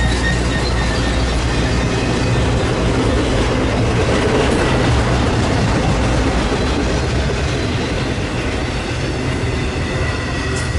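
Train rolling past, a steady loud rumble and rattle of wheels on rail, with faint high wheel squeal near the start and again near the end.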